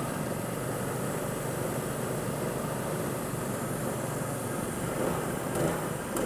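Go-kart engine running at a steady speed, a constant drone with no revving.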